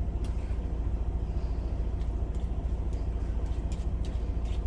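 Steady low, evenly pulsing rumble of an idling truck engine, with a few faint pops from food cooking in the pan.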